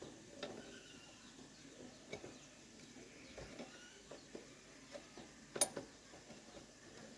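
Light scattered clicks and taps of tools and small parts being handled during motorbike repair work, with one sharper click about five and a half seconds in.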